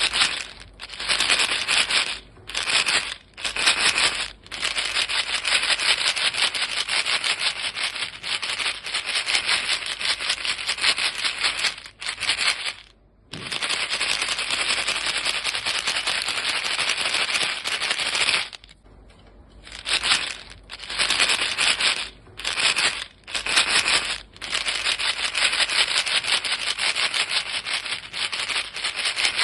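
Box of chewing gum pellets shaken steadily, the pellets rattling inside it in a dense hiss, broken by short pauses several times.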